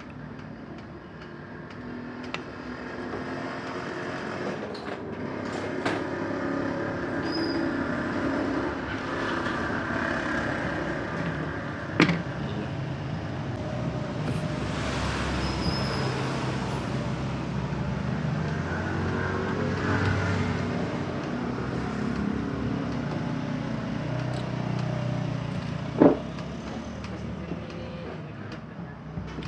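Steady motor traffic with engines running and passing, and two sharp knocks, one about twelve seconds in and one near the end.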